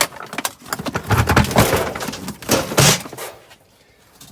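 Scrap being handled and thrown onto a pile: a run of knocks and clatters for about three seconds, stopping near the end.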